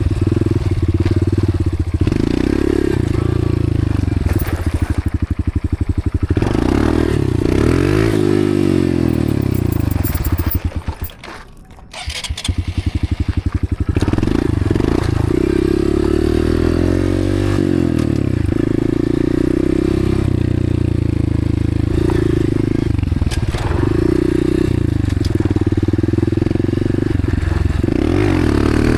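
Dirt bike engine revving up and down as the bike is ridden around a dirt track. About eleven seconds in it drops back briefly and gets quieter, then picks up again.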